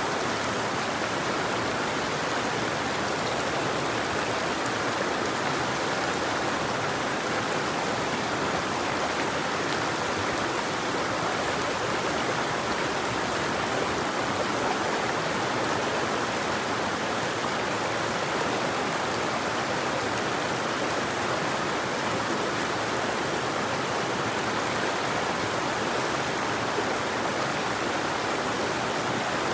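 River water flowing with a steady, unbroken rushing.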